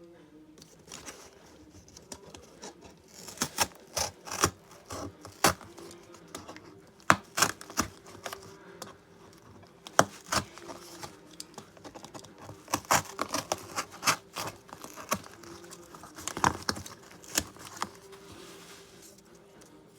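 Cardboard being worked by hand: irregular sharp clicks, snaps and scratching, with a faint steady hum underneath.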